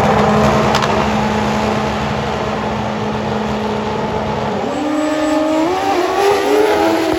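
Drag racing motorcycle engine at full throttle on a quarter-mile pass. The engine holds a steady note for about four seconds, then its pitch climbs in several steps as the bike accelerates away.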